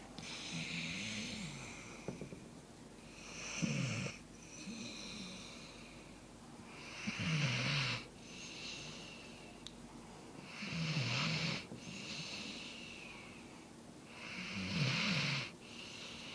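Sleeping dog snoring: four loud snores about every three and a half to four seconds, each followed by a softer, hissy breath.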